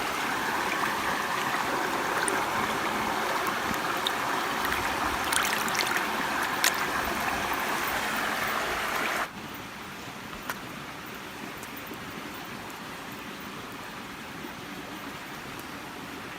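Steady rush of flowing river water with sharp, scattered crackles from the campfire. About nine seconds in, the sound drops suddenly to a quieter, steady rush.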